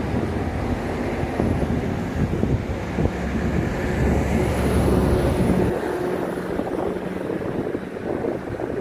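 Wind rushing and buffeting the microphone by the sea, with a steady engine drone over it that fades out about six seconds in.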